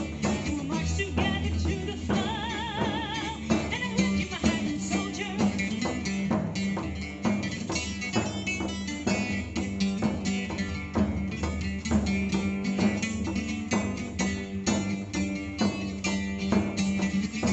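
Instrumental break in a Celtic folk song played by a band: strummed guitar and drums keep a steady rhythm, with a held, wavering lead note about two seconds in.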